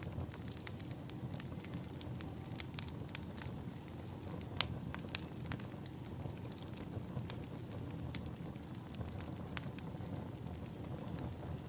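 Fireplace crackling: a steady low rush of burning with frequent sharp pops and snaps, one louder pop about halfway through.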